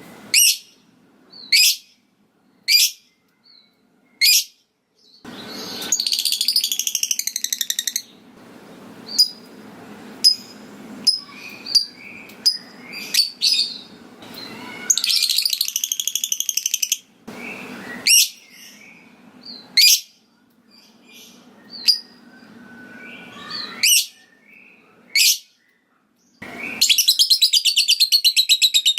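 Lovebird calling: sharp single 'ngetik' chirps about a second apart, broken three times by long, fast chattering 'ngekek' trills, the last starting near the end.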